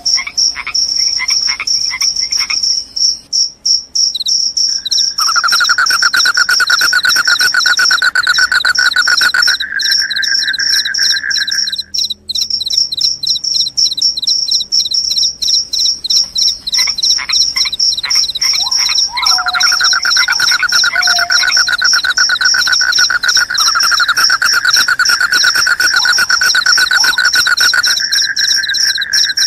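Several crickets chirping at once. A high, rapid trill runs throughout, and a lower pulsing trill comes in twice: from about five seconds to twelve seconds in, and again from about nineteen seconds on.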